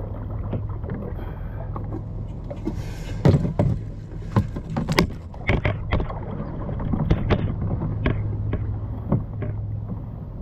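Knocks, clatters and water noise of a fish being fought from a kayak, with the sharpest knocks clustered in the middle, over a steady low hum.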